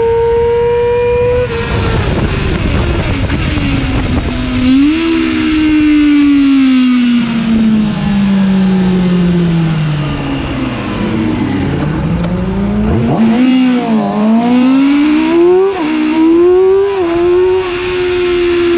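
Yamaha YZF-R6's 600 cc inline-four heard onboard at racing speed: the engine note is held high and steady at first, falls away after about a second and a half as the throttle is shut, then rises and sinks through the corners. Several quick swoops in pitch from the middle on mark fast gear changes, and the note settles steady near the end as the bike drives out.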